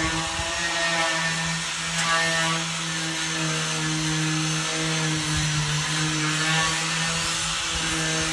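Concrete pump running steadily, a constant low mechanical drone over a rough, noisy wash.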